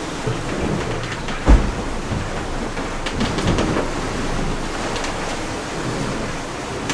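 Steady rushing of wind and water around a sailing catamaran under way at sea, with one heavy low thump about a second and a half in and a few light clicks later.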